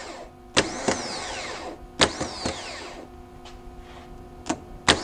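Toyota starter motor, rebuilt with new brushes, bench-tested off a battery. Three times a sharp solenoid click sets it spinning briefly, and each burst ends in a whine that falls in pitch as the motor coasts down. It spins freely: the repaired starter works.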